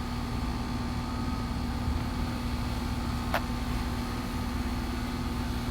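Wind rumbling on the microphone under a steady hum, with one brief sharp click or chirp about three seconds in.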